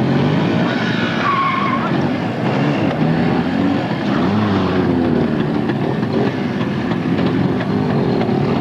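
Soviet-era motorcycle engine running hard, its pitch rising and falling again and again as the throttle is worked during a stunt.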